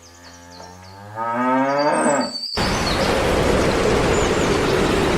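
A cow mooing: one long low call that rises in pitch at the end, then cuts off abruptly. About two and a half seconds in, a steady loud noisy rumble takes over.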